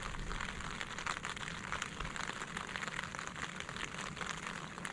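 Steady rain falling on a tent, a fine hiss made of many small drop hits.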